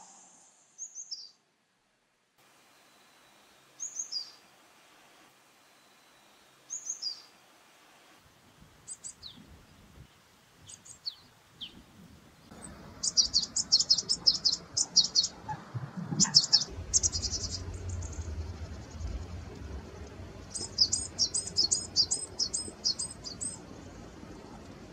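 Small wild songbirds calling: a few separate high, downward-sliding chirps at first, then from about halfway quick runs of high chirps, and near the end a fast series of about eight repeated notes.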